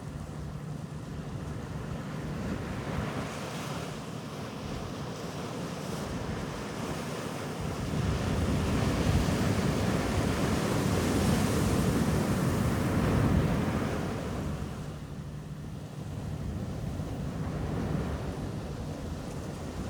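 Ocean surf on a beach: waves breaking and washing in a steady hiss, one swell building to its loudest in the middle and then receding before the next comes in. Wind rumbles on the microphone underneath.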